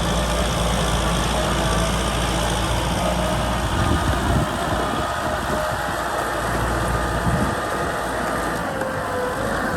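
Kubota M6040 SU tractor's diesel engine running with a steady low rumble.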